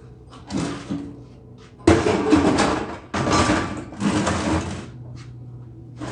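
MIG welder laying short welds: five crackling, buzzing spurts of about half a second to a second each, with a low steady hum between them.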